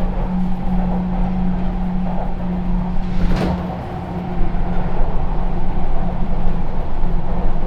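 Sotetsu New 7000 series electric train with Hitachi GTO inverter control, heard from inside while running: a steady low rumble of wheels on rail with a constant hum. A brief hiss comes about three seconds in, then uneven sharp knocks from about four and a half seconds.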